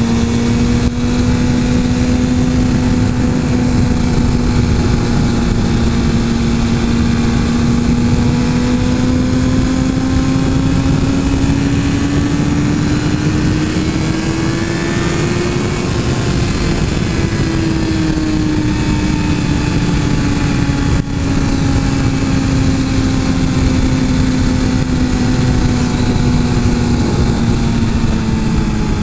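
Suzuki GSX-R 1000 inline-four engine running at a steady cruise under way, its note rising a little about halfway through and easing back, with wind rushing over the microphone.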